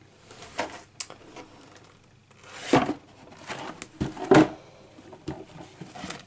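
A cardboard LEGO set box being handled and turned over: a series of irregular knocks and scrapes, the loudest about three and four and a half seconds in.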